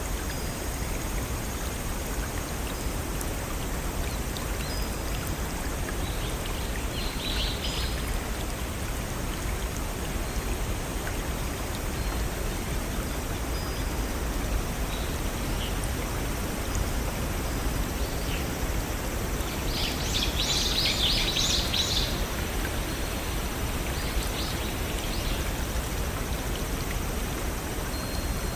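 A small stream or little waterfall flowing with a steady rush, with birds chirping over it: a brief chirp about a quarter of the way in and a louder flurry of high chirps about two-thirds of the way through.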